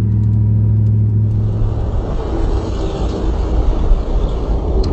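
Vehicle engine running with a steady idle, turning to a rougher, noisier rumble about a second and a half in.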